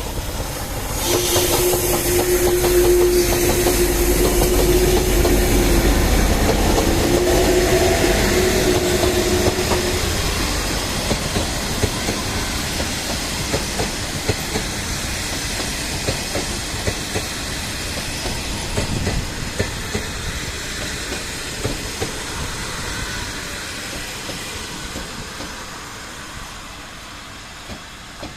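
CT273 steam locomotive sounding its whistle in two steady blasts, a long one and then a shorter one, with a burst of steam hiss as it begins. The train's wheels then clatter over the rail joints, fading toward the end.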